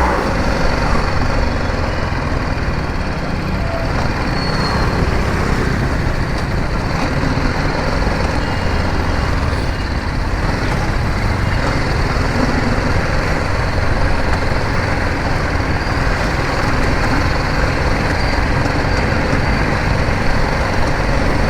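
Steady riding noise from a BMW G 310 GS motorcycle on a broken, potholed road: its engine running under wind and road noise, with no single sound standing out.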